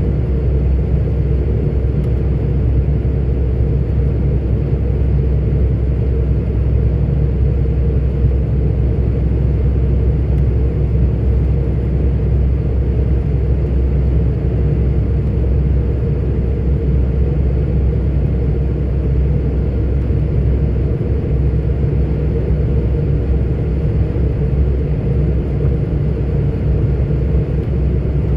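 Steady low drone of a 44-ton articulated truck under way: diesel engine and road noise at a constant cruise, with no gear changes or other events.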